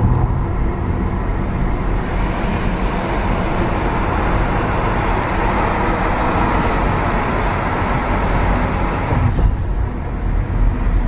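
Car running on a winding mountain road, heard from inside the cabin: steady engine and tyre road noise. It swells in the middle and eases off suddenly about nine seconds in.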